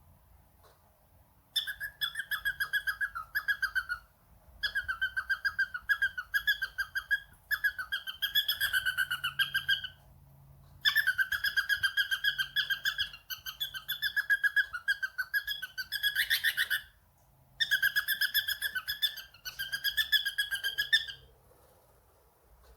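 Pet cockatiel whistling in rapid, trilling phrases on a steady pitch, repeated in several bursts of a few seconds each with short pauses between.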